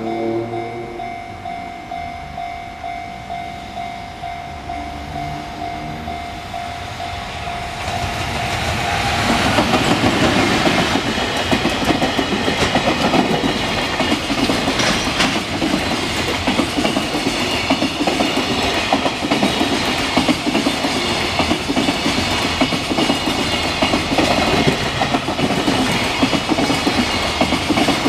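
A railway level-crossing warning bell rings with a steady, even clanging. About eight seconds in, a train arrives and passes over the crossing, its wheels clacking over the rail joints for the rest of the time.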